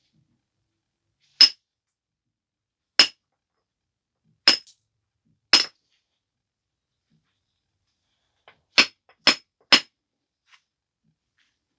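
Sharp clinking strikes on a stone biface as flakes are knocked off during flintknapping. There are seven blows: four spaced well apart, then three in quick succession near the end.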